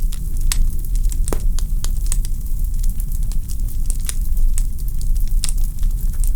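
Wood fire burning in a fireplace: a steady low rumble of flames with irregular sharp crackles and pops from the logs, several a second, and one louder pop about a second in.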